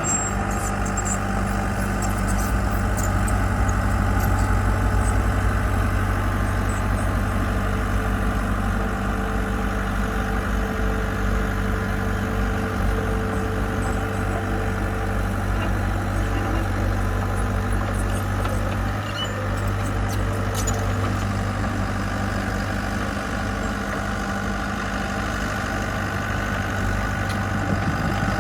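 Diesel engine of heavy construction equipment running steadily with an even low drone, dipping slightly for a moment past the middle.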